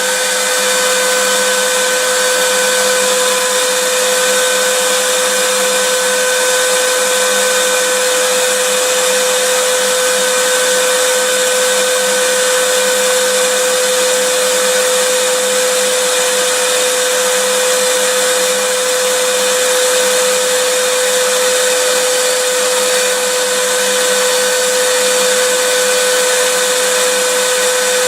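Vacuum cleaner running steadily, a dense even hiss with a constant whine from its motor.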